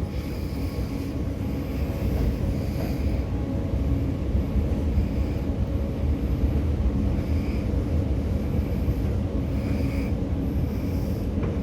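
A long escalator running while being ridden down: a steady low mechanical rumble with a faint hum.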